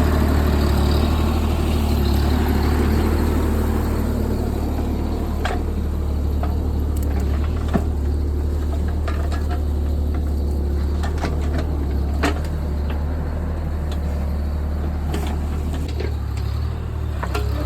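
JCB JS30 Plus mini excavator engine running steadily as a low hum, working harder for the first few seconds, then settling. Scattered sharp clicks and knocks sound over it from about five seconds in.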